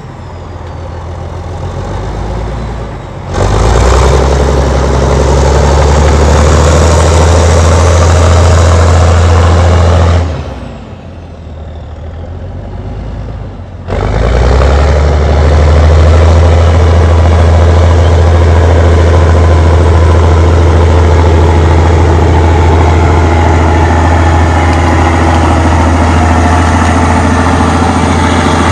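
Allis-Chalmers HD21 bulldozer's diesel engine running loud and steady under load while pushing dirt. It falls away twice for a few seconds, once at the start and again about ten seconds in, then comes back up sharply.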